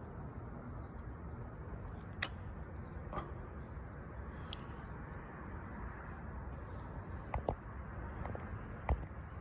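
A small bird chirping over and over, a short high call a little more than once a second, over a steady low outdoor rumble. A few sharp clicks stand out, the loudest about two seconds in and near the end.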